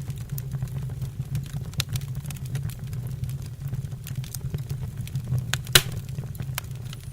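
Wood fire crackling in a fireplace: a steady low rumble of flames with scattered sharp pops, the loudest a single loud snap near the end.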